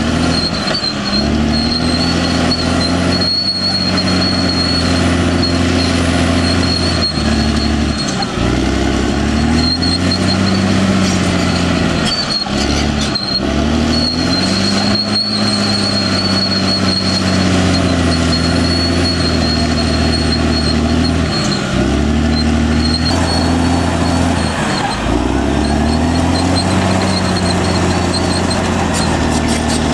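Caterpillar D6R XL bulldozer's diesel engine working under load, its note dipping sharply and recovering about half a dozen times as the load on the blade changes, with a faint high whine coming and going.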